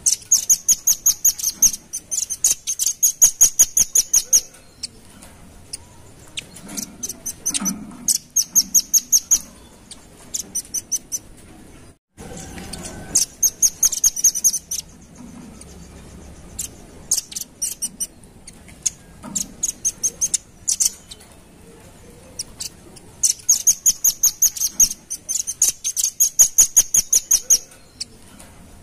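Velvet-fronted nuthatch (red-billed nuthatch) calling in rapid trills of sharp, very high chip notes, about ten a second, in bouts of a few seconds separated by short pauses.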